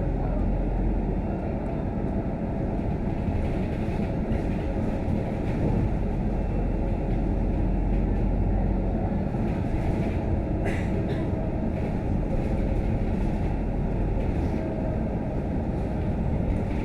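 Steady engine and road rumble heard inside a Scania K310UD double-decker bus while it runs, with a brief click or rattle about eleven seconds in.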